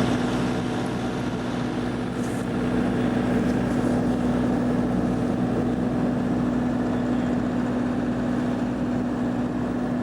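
A steady engine drone with a strong, unchanging hum.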